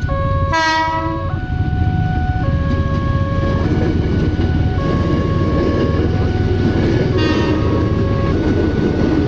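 Train horn at a railway level crossing: one loud blast of just under a second near the start and a fainter one about seven seconds in. Under it are a steady low rumble of the train and the crossing's electronic warning alarm, stepping back and forth between two tones about once a second.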